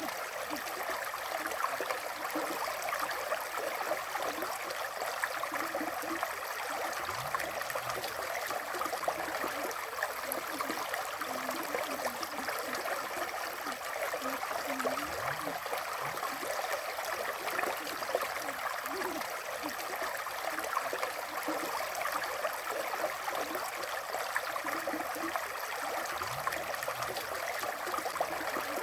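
River water flowing steadily, a constant rushing and gurgling with no breaks and little deep rumble.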